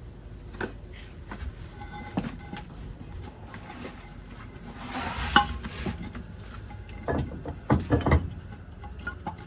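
Metal clinks and knocks of tools and hardware being handled on a truck's spare tire hoist and wheel, irregular, with a cluster of louder knocks near the end.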